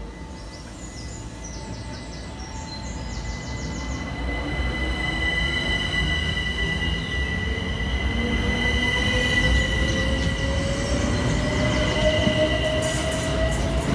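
Southeastern passenger train approaching the platform, growing steadily louder, with a steady high-pitched squeal and a slowly rising whine over its rumble.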